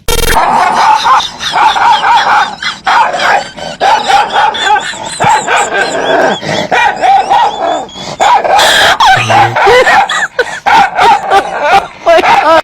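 A dog barking and yipping in quick succession, loud and nearly unbroken, with wavering high-pitched cries between the barks.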